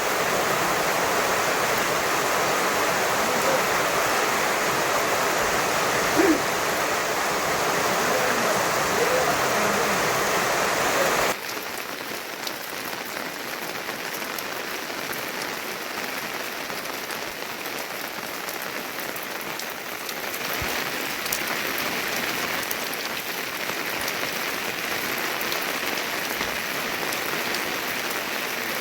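Steady rain falling, an even hiss of drops; it drops a little in level about eleven seconds in and rises slightly again near twenty seconds.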